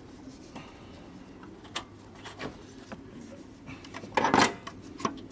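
Light clicks and knocks of hand tools and metal parts being handled while working on an engine, with a louder clatter about four seconds in.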